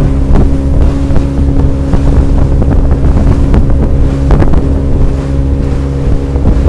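Motorboat engine running steadily at speed, with a loud low rumble and wind on the microphone. A few short thumps from the hull meeting the waves, the clearest one about four seconds in.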